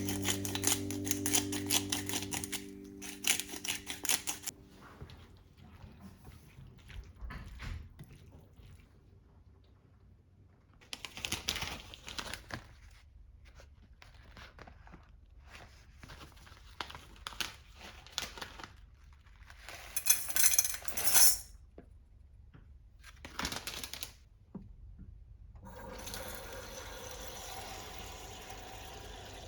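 Kitchen work sounds: scattered light clicks and knocks of utensils and containers, with several short rushing bursts. A few seconds before the end, a steady run of tap water begins.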